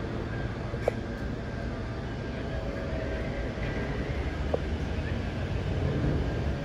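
Electric double-deck passenger train running past: a steady low rumble with a faint motor whine, and two short squeaks, one about a second in and one about four and a half seconds in.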